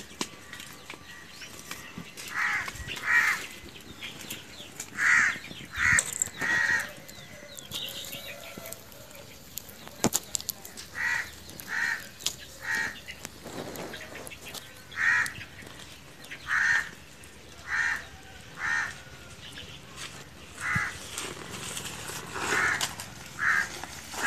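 A bird calling over and over: short calls, mostly in pairs or threes, every second or two.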